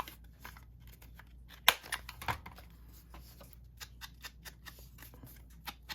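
Paper tags and ephemera being handled on a craft desk: light rustling with scattered small clicks and taps, the sharpest just under two seconds in.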